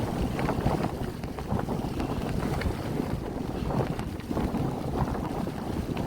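Strong mountain wind gusting across the microphone: a dense, heavy rumble that surges and eases.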